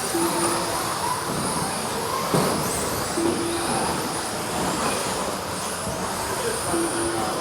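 Radio-controlled stadium trucks racing: a steady mix of motor whine and tyre noise, with short rising and falling whines as they accelerate and brake. There is one brief knock about two seconds in.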